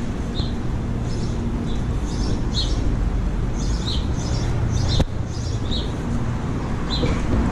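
Small birds chirping in short, irregular calls several times a second over a steady low city rumble. A single sharp click about five seconds in.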